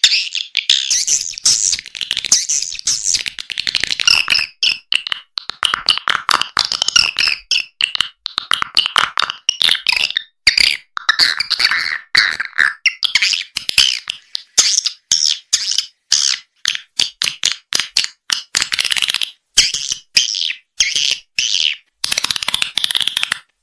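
Swiftlet call recording: fast, high twittering chirps in dense runs broken by short gaps. It is a lure call, played from tweeters to draw swiftlets into a nesting house.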